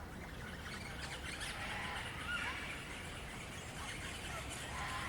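Birds calling: scattered short, squeaky chirps and little gliding notes, busiest about two seconds in.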